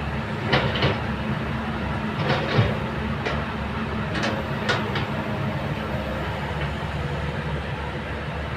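Kobelco excavator's diesel engine running steadily, with a handful of sharp metallic clanks and knocks in the first five seconds.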